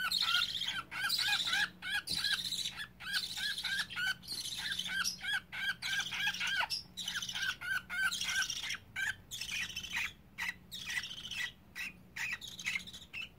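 Baby budgerigar chicks whining, with rapid, repeated arched chirps several a second and short pauses between runs. The owner takes the cries for fright.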